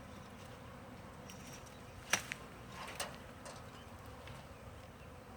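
A honey bee swarm buzzing steadily, with two sharp clicks about two and three seconds in.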